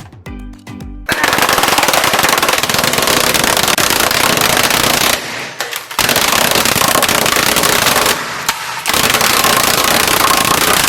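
A loud, rapid barrage of bangs in the manner of automatic gunfire, starting about a second in. It comes in three long bursts with two short breaks, after a few short musical notes at the start.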